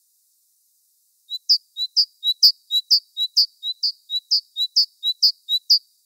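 A small songbird singing: a high two-note phrase, one note rising sharply above the other, repeated about twice a second. It starts a little over a second in and runs on in an even rhythm.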